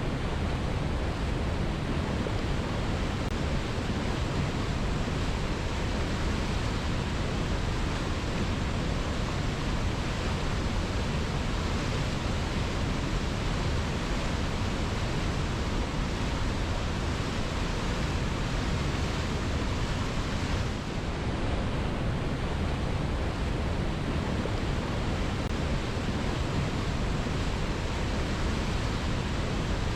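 Waterfall cascading over rocks: a steady, unbroken rush of falling water, fullest in the low range, with no birds or other distinct events.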